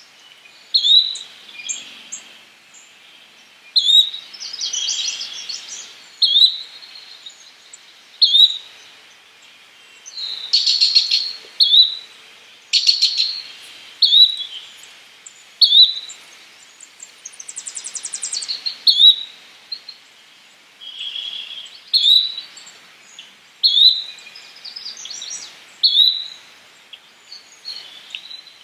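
Yellow-bellied flycatcher giving a short, sharp call over and over, about once every two seconds. Other birds' trills and buzzy rattles come between the calls, loudest about a third of the way in and again past the middle.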